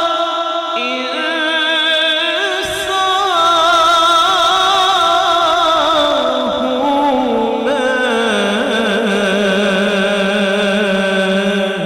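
Male naat reciter singing a long, wavering melismatic note with vibrato, unaccompanied by instruments but over a steady vocal drone underneath, shifting pitch a few times.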